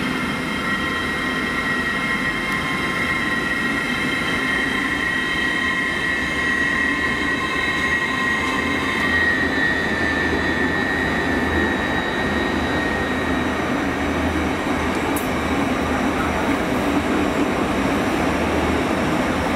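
Hitachi Class 800 bi-mode train running slowly past at low speed with a steady low rumble. A high squeal of several steady tones sounds over it and fades out about halfway through.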